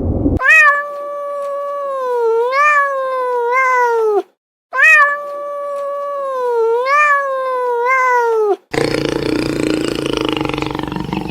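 A domestic cat giving two long, drawn-out meows of about four seconds each, the pitch wavering and sliding down at the end; the two calls are identical. About three-quarters of the way through it cuts abruptly to a rough, noisy rumbling sound.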